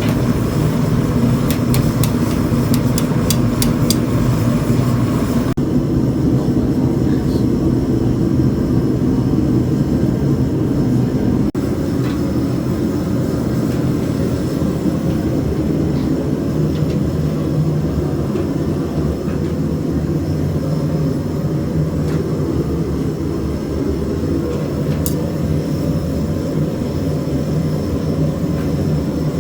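A blacksmith's forge running with a steady roar. A few sharp clicks sound in the first few seconds.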